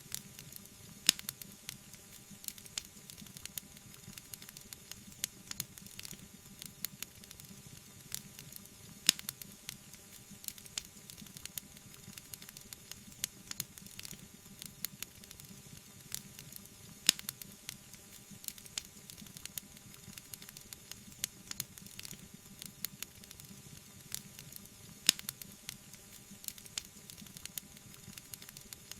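Wood fire burning in a fireplace, crackling with frequent sharp pops and snaps over a soft hiss. A louder pop comes about every eight seconds.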